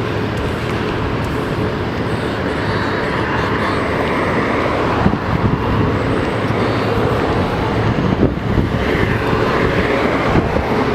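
Steady rumble of a moving vehicle.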